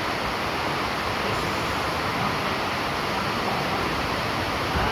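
Rain falling steadily, an even rushing hiss that does not let up.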